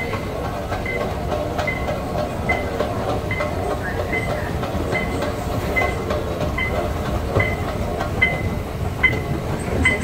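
Airport automated people mover train running: a steady low rumble with a short, regular click a little more often than once a second.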